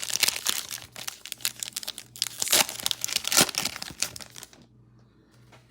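Trading-card pack wrapper being torn open and crinkled by hand: dense, irregular crackling that stops about four and a half seconds in.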